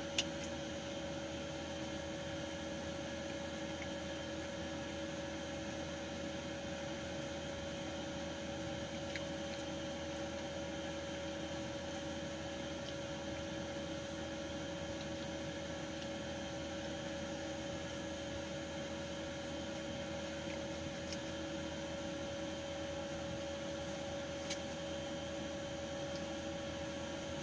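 Steady indoor room noise: a constant electrical hum with a faint whine and hiss, and a couple of faint ticks.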